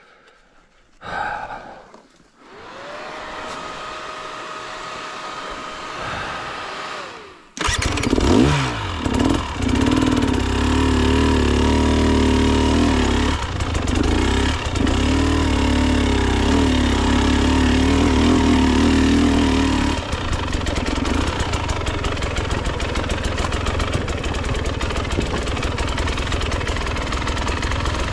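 Dirt bike engine started about eight seconds in, held at raised revs with the pitch wavering, then dropping back to a steady, rattly idle about twenty seconds in. A faint steady whine comes before it starts.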